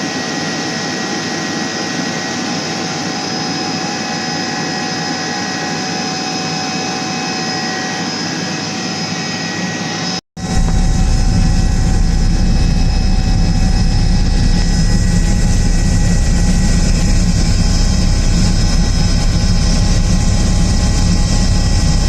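Steady cabin noise of an Airbus H145 helicopter, with a whine of fixed tones from its turbines and gearbox. About halfway through, the sound cuts off abruptly and comes back louder, with a heavy low rumble under the same tones.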